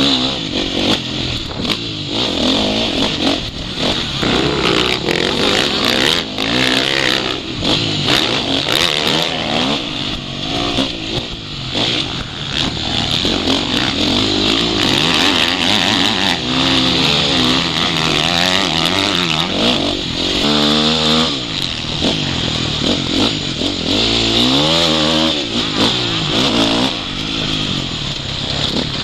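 Motocross bike engine revving hard and easing off again and again, its pitch climbing and dropping as the rider rides the track. It is heard close up from the rider's goggle-mounted camera.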